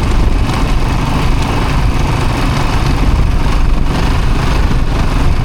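Steady vehicle engine and road noise while driving, strongest in the deep low end, with no change in pace.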